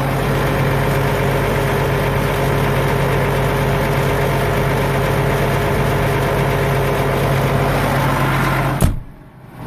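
A vehicle engine running steadily at an even pitch, with no revving. It cuts off abruptly with a click about nine seconds in.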